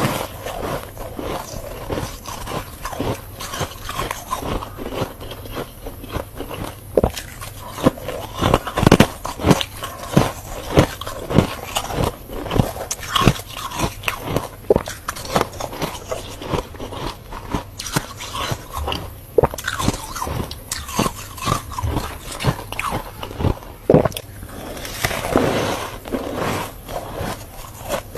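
Close-up crunching of freezer frost being bitten and chewed, with irregular crisp crunches about one or two a second and occasional scraping.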